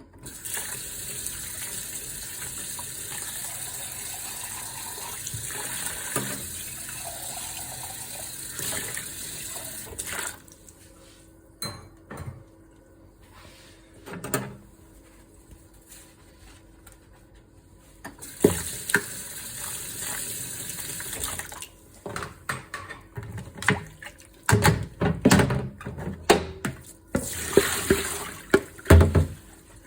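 Kitchen tap running into a sink during dishwashing. It stops after about ten seconds and runs again briefly later. In the last several seconds dishes and pans knock and clatter sharply, over and over.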